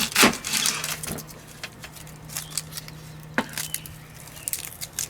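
Knife cutting an onion on a cutting board: irregular sharp knocks and clicks, with a faint steady hum underneath.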